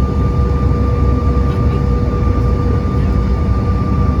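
Airliner cabin noise from the jet engines: a steady low rumble with a constant whine running through it.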